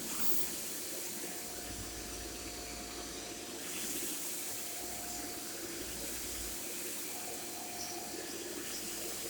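Shark corded Lift-Away vacuum cleaner running steadily: a constant rush of airflow over a faint motor hum, swelling briefly about four seconds in.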